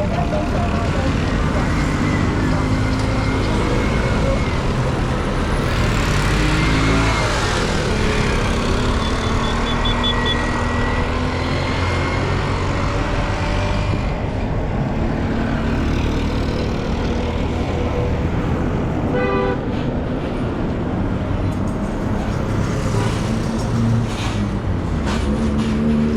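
Street traffic: car and truck engines running, with occasional horn toots over a steady roadway din.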